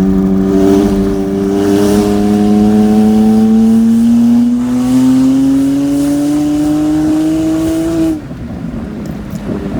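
Straight-piped BMW 335i's N54 twin-turbo inline-six, its exhaust open from the catless downpipes back, pulling hard through one gear: the engine note rises steadily for about eight seconds, then drops away suddenly as the throttle closes.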